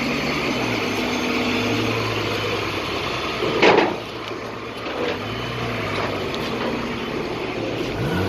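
Car engines running, with steady background noise, and a short loud burst of sound about three and a half seconds in.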